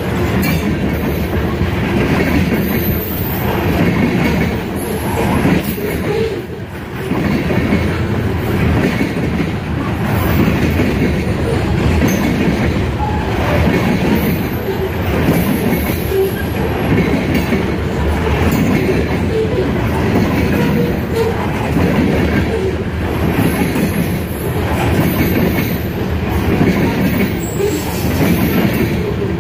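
Loaded covered hopper cars of a freight train rolling past close by: a steady loud rumble of steel wheels on rail, with a clatter that swells about every two seconds as car trucks pass and a faint high wheel squeal at times.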